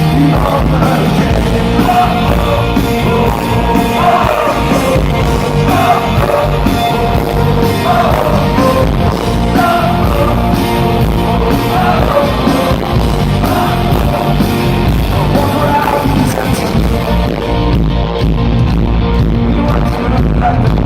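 Live rock band playing loudly with a male lead vocal singing over guitars and drums; the highest, cymbal-like sounds thin out in the last few seconds.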